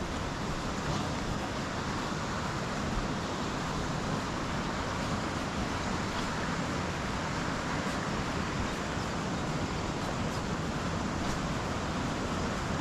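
Steady rush of fast-flowing water in a burn tumbling over rocks toward a waterfall, an even hiss that holds at one level throughout.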